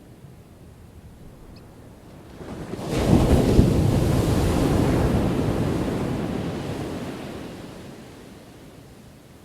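A single ocean wave crashing on the shore: the surf builds from about two seconds in, breaks loudly about three seconds in, then washes out and fades over the next five seconds.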